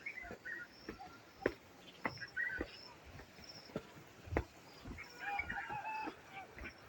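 Outdoor ambience with scattered sharp knocks and short high bird chirps, and a pitched animal-like call about five seconds in.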